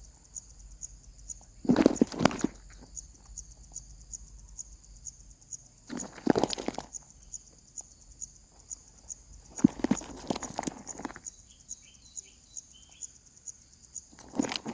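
Nestlings scrabbling in their nest: four short bursts of rustling and scratching, with a few faint high cheeps near the end, over a steady fast high ticking.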